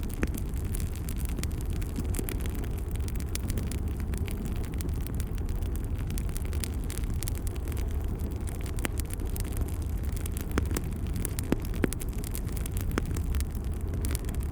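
Wood fire crackling in a fireplace: a steady low rumble of flames with frequent irregular pops and snaps.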